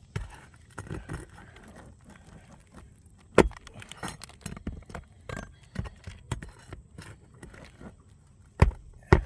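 Scattered clicks, rustles and knocks of hand work on asphalt roof shingles and tools, with one sharp knock about three and a half seconds in and a few more near the end.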